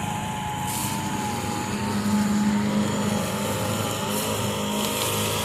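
Echo SRM 225 two-stroke string trimmer running at low revs, its pitch wavering slightly. Behind it, a Craftsman riding mower's Briggs & Stratton engine runs steadily.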